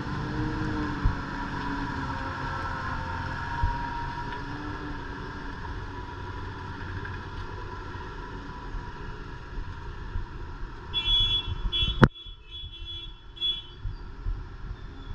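Heavy truck's engine running under load, a steady low drone. Near the end a high horn sounds in several short toots, with a sharp click about twelve seconds in, after which the engine noise drops away.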